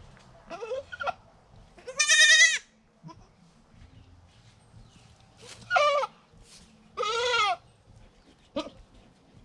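Goats bleating: about five separate wavering calls, three of them loud and a short one near the end.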